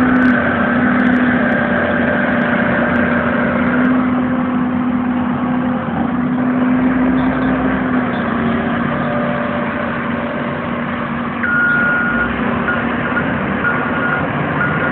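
Heavy construction machinery engines running steadily next to the site. From about three-quarters of the way through, a vehicle's reversing alarm beeps over it at an even pace.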